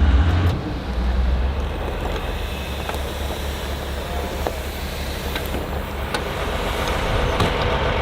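Jet boat's engines and jet pumps running steadily under way, with water and wind noise. The deep rumble is strongest in the first half second, then settles to an even level.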